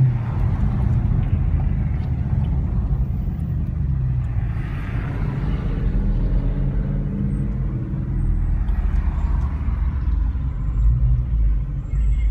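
Dodge Charger V8 engines running at low speed and idle in slow traffic, a steady deep exhaust rumble heard from inside a car.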